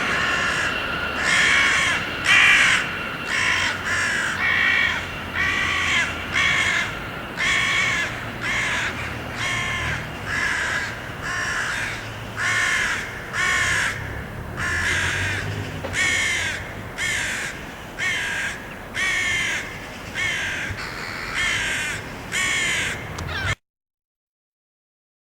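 A crow cawing over and over, about thirty harsh calls at a steady pace of roughly one a second, until the sound cuts off abruptly near the end.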